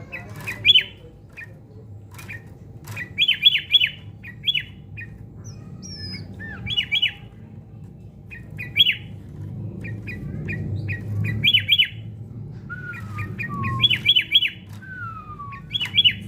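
Sooty-headed bulbul calling: short, sharp notes in quick clusters of two to four, repeated throughout, with a few falling whistled notes near the end.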